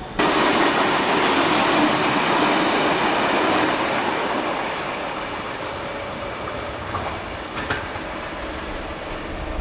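Train rolling along the rails: a loud rush of wheel and track noise that starts abruptly and slowly fades, with a couple of sharp clacks late on.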